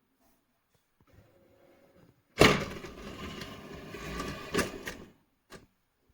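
A sudden bang, then about two and a half seconds of scraping and clattering with another knock near the end, and a short click.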